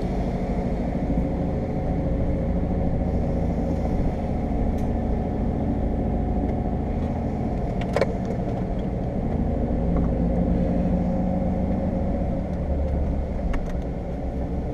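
Jeep engine running steadily as the vehicle drives off the beach, a low, even rumble with one sharp click about eight seconds in.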